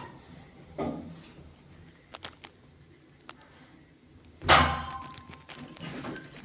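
Lift door and car knocks: a few light clicks, then a loud thud about four and a half seconds in with a brief ringing tone after it. A faint steady high whine stops just before the thud.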